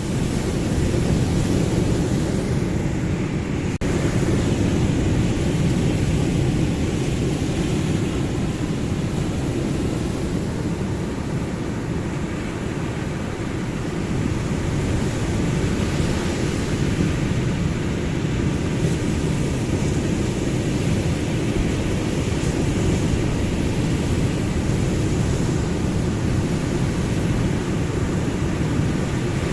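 Ocean surf: a steady, deep rumble of waves that eases slightly around the middle and then swells again, with no single breaker standing out.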